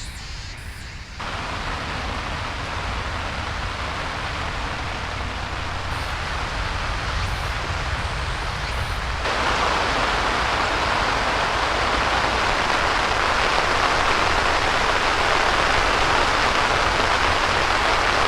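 Heavy rain falling steadily, a dense even hiss that gets louder in two steps, about a second in and about nine seconds in.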